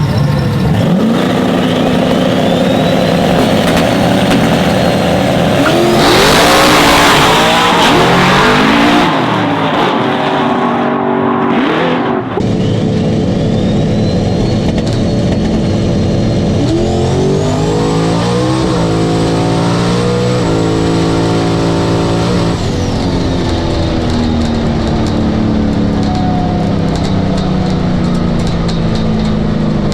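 Race trucks accelerating hard on a drag strip, engines revving up through the gears on two runs, each with a high whine that rises and then holds steady.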